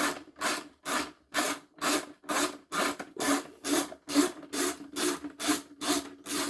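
Ratchet spanner undoing a 10mm bolt on a vacuum cleaner's casing, its handle swung back and forth in an even run of rasping strokes, about two a second.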